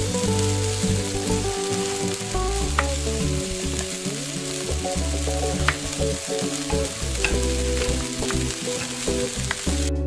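Food frying in a pan: a steady crackling sizzle over background music, with a few faint clicks. The sizzle cuts off abruptly near the end.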